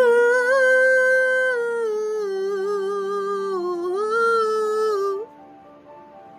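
Intro of a pop song: a wordless humming voice holds a long note over soft sustained keyboard chords, sags in pitch and rises again, then stops about five seconds in, leaving the soft chords.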